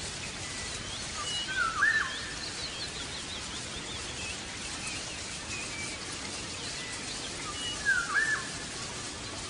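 Birds chirping: many short, high chirps throughout, with a louder looping call about two seconds in and again near the end, over a steady background hiss.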